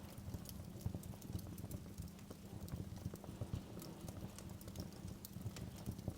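Crackling wood fire in a fireplace: a low steady rumble of the flames with frequent irregular pops and snaps.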